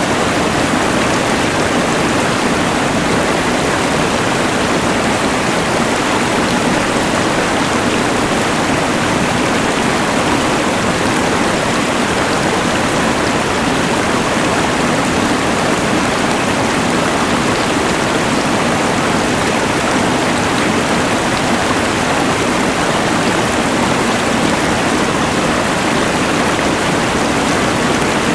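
A rushing mountain river mixed with the hiss of a LectroFan white noise machine, a steady, even wash of noise that does not change.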